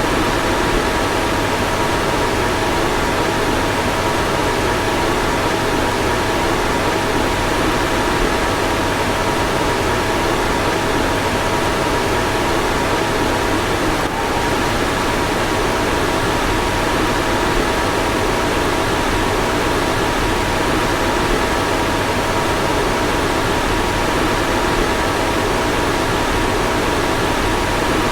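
Car fan running steadily: an even rush of air with a couple of faint steady hums in it, and a slight momentary dip about halfway through.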